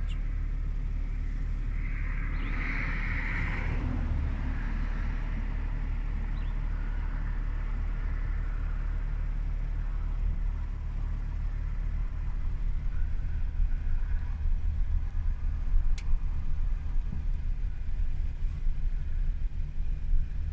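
Low, steady rumble of a car's engine running, growing louder and more uneven about halfway through.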